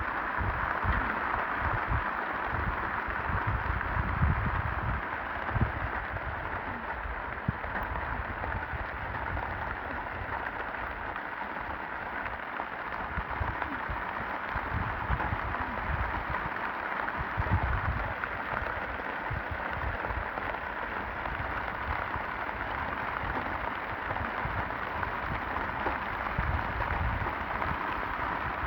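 Steady rain falling, with irregular low rumbling underneath.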